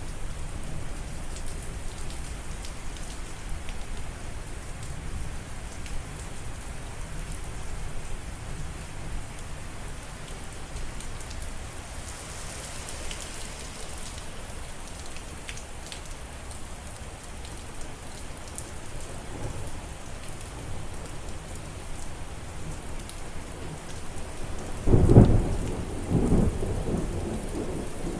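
Steady rain falling. Near the end comes a loud clap of thunder, followed a second later by a further rumble.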